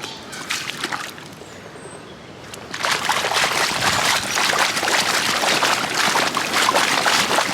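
Feet splashing and stamping in a muddy puddle, starting about three seconds in and going on as a dense, loud sloshing.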